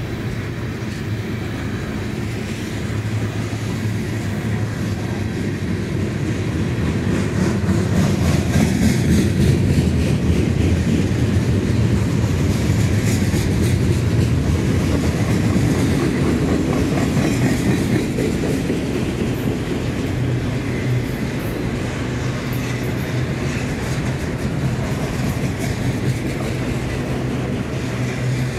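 Freight cars rolling past close by, covered hoppers and then bi-level autoracks, with a steady rumble and wheels clattering on the rails. It grows louder a few seconds in and eases off somewhat toward the end.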